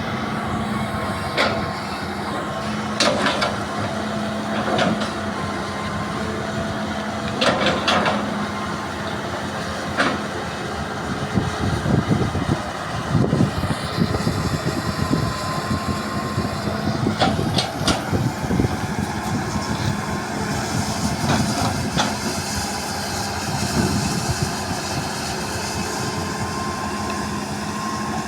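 Hydraulic excavator's diesel engine running steadily under working load, with repeated sharp clanks and knocks as it digs.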